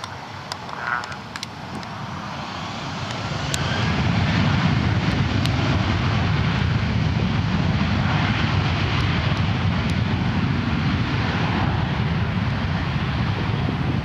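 Jet airliner's engines, growing louder over the first four seconds and then holding a steady, loud noise as the aircraft passes close by.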